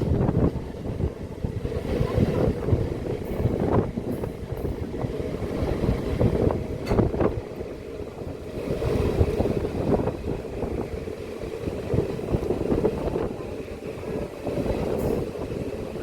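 Passenger train running at speed, heard from aboard: a steady rumble with irregular knocks of wheels and coaches over the rails, and wind buffeting the microphone.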